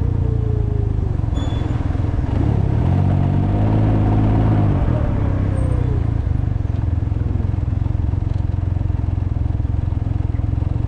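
Can-Am Ryker three-wheeler's engine running on the move, buried in heavy wind rumble on the microphone. About halfway through, the engine note rises and then falls.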